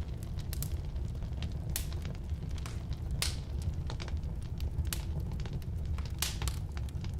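Firewood burning in a fireplace or wood stove: the fire's steady low rumble with irregular sharp crackles and pops, the loudest pops a little past three seconds in and again a little past six seconds in.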